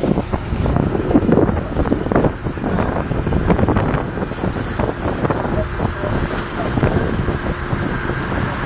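New Holland T7.315 tractor's 6.7-litre six-cylinder diesel running under load, with heavy wind buffeting the microphone.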